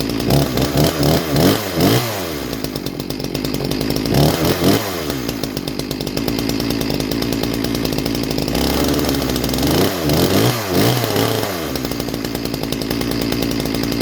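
Ported Farmertec G366 two-stroke chainsaw running on its first start. It runs steadily and is blipped up and down in short revs in three bursts: several near the start, a couple around the middle, and several more late on.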